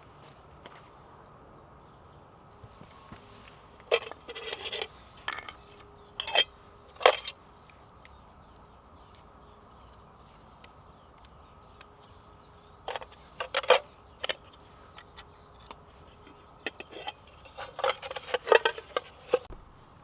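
Short clinks and knocks of things being handled, in a cluster about four seconds in, another near the middle and a longer run near the end, with a metallic, cookware-like ring.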